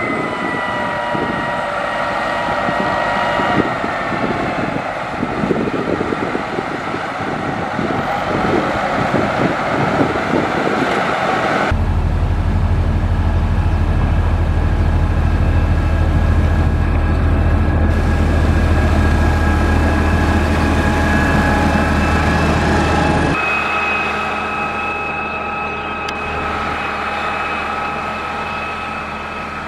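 Diesel engines of heavy road-construction machinery running, in three stretches that change abruptly about twelve seconds in and again about twenty-three seconds in. The middle stretch carries a loud, steady low drone.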